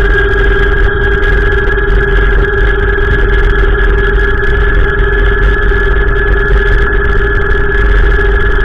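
Gusty wind buffeting the microphone as a loud low rumble that flutters in strength, with a steady high whine running underneath.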